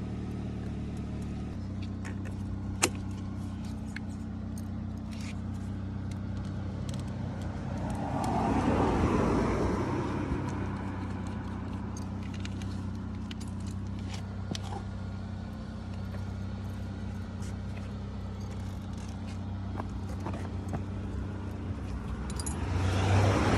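Two vehicles passing by on a road, one about eight seconds in and one near the end, each swelling up and fading away, over a steady low hum with scattered light metallic clicks of hand tools.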